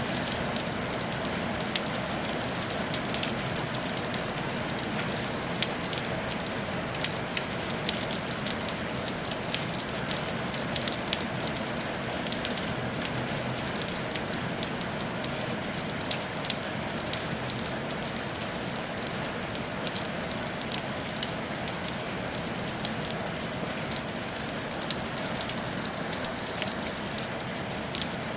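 Steady rain falling on a tile roof: an even hiss of rain with many small drop impacts throughout.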